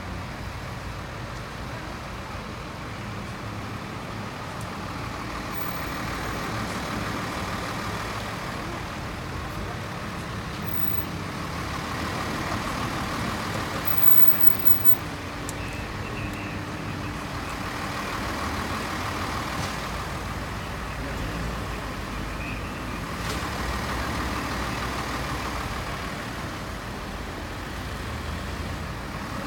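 Road traffic: motor vehicles running and passing, the sound swelling and fading several times.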